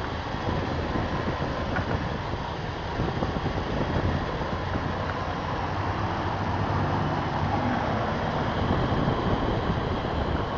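2000 Dodge Dakota pickup's engine idling steadily, a low even rumble under a noisy hiss.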